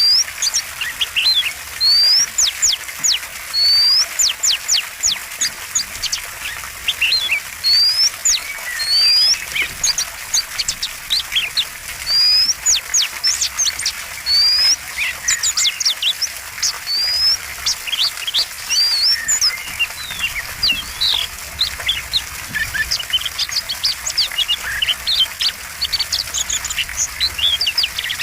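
Oriental magpie-robin (kacer) singing without a break: a run of loud, rising whistled notes that recur every second or two, woven through with rapid, varied chirps and short trills.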